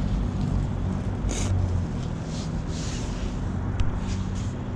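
Steady low rumble of rental electric scooters rolling over pavement, with occasional hissy swells.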